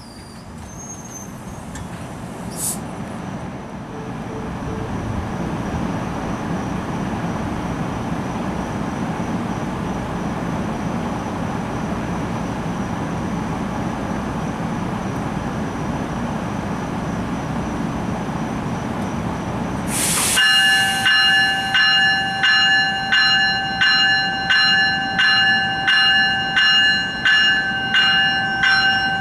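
NJ Transit Multilevel commuter train rolling slowly into the station, its wheels on the rail making a steady rumble that swells over the first few seconds. About two-thirds of the way through, a warning bell suddenly starts ringing at roughly one strike a second, louder than the train.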